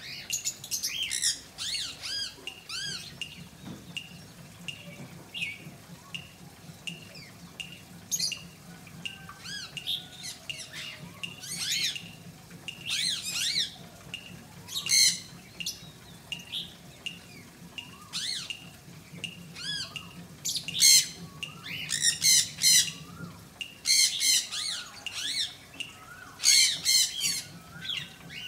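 Pet birds calling: many short, high chirps and squawks, coming in louder rapid series in the second half. A faint low hum underneath stops about three-quarters of the way through.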